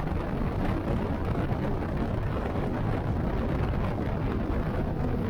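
Steady low rumbling noise of a vehicle on the move, with wind on the microphone.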